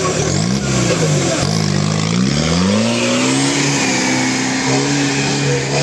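Off-road 4x4's engine revving hard under load, its pitch dipping and rising several times, then climbing about two seconds in and holding high before easing slightly near the end.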